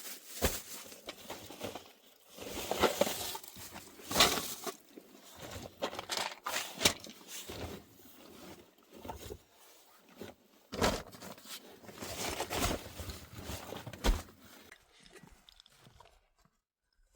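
Irregular crunching and rustling sounds, a run of uneven bursts that die away about fifteen seconds in.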